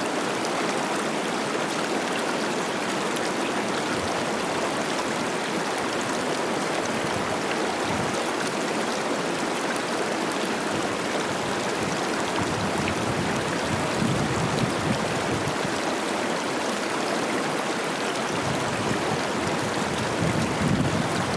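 Cache la Poudre River rushing and babbling over rocks, a steady wash of flowing water as the river runs high with spring snowmelt. A few low gusts of wind buffet the microphone about two-thirds of the way in and again near the end.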